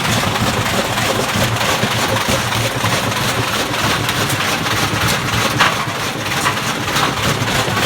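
Two washing machines spinning hard with heavy unbalanced loads, a loud continuous rumbling clatter of drums and cabinets banging and shaking themselves apart.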